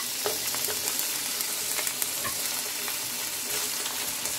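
Sliced onion and green chillies sizzling in hot oil in a frying pan, a steady hiss, with occasional light clicks as a silicone spatula stirs them.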